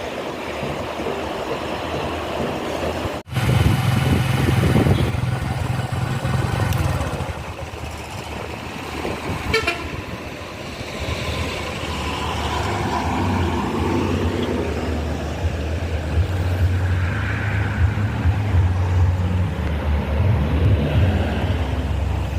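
Heavy vehicle engines running with a steady low hum, with a horn sounding. The sound drops out sharply for a moment about three seconds in, then the engine hum comes back louder.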